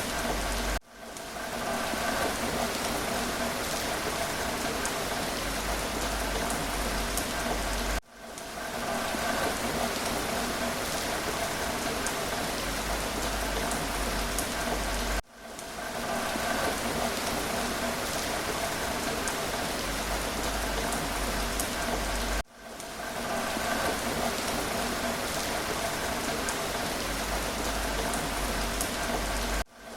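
Steady rain hiss from a short recording played in a loop. It cuts out abruptly about every seven seconds and fades back in at each loop seam.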